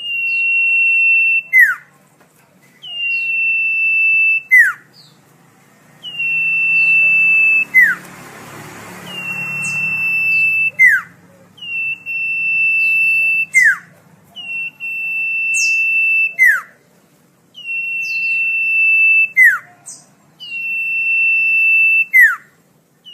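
Common iora singing: a long, steady, high whistle ending in a quick downward slur, repeated eight times about every three seconds.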